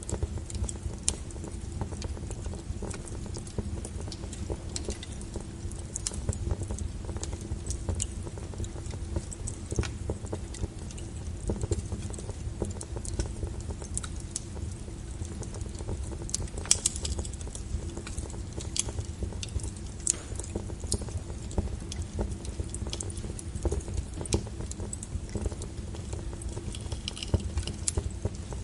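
Wood fire crackling: irregular sharp pops and snaps, some louder than others, over a steady low rumble of the burning logs.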